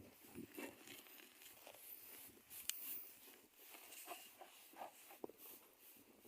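Near silence with faint, scattered taps and clicks; one sharper click about two and a half seconds in.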